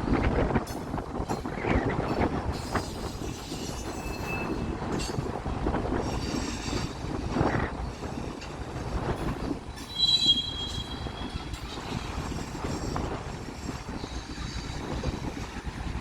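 BNSF mixed freight train's cars rolling past, a steady rumble of wheels with rail clatter. Brief high wheel squeals come about four seconds in and again around ten seconds in.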